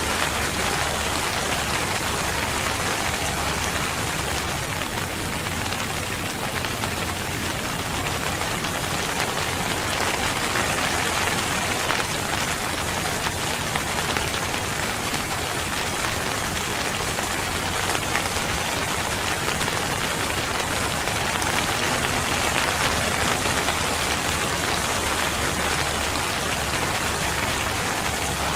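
Steady rain falling on a surface, a dense, even patter of raindrops.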